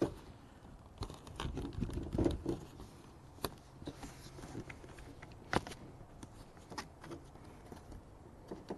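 Rustling and a few separate sharp clicks from a car door trim panel being worked loose as its lock rod and door lock switch connector are unclipped.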